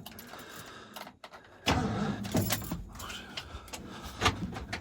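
Keys jangling at the ignition, then, almost two seconds in, the starter cranks the freshly rebuilt Ford 460 (7.5-litre) big-block V8 with a sudden loud onset.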